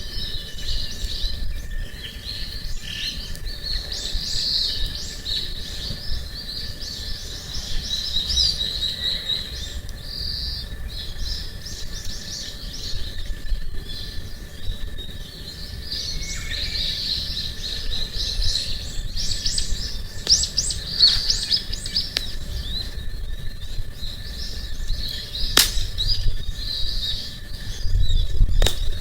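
Small birds chirping and singing, with a dense run of quick chirps and trills, over a low steady outdoor rumble. Two sharp snaps come near the end.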